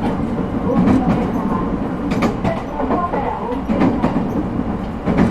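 Interior running sound of an ET127-series electric multiple unit, refurbished with Toyo IGBT-VVVF traction equipment: a steady rumble from wheels and traction gear. A few sharp clicks come about a second in and again between two and three seconds, as the wheels pass over rail joints.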